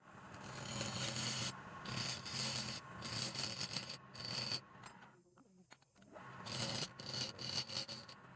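Turning tool scraping against wood spinning on a lathe, in strokes of about a second each. Four strokes run in a row, then there is a pause of about a second and a half, then more strokes.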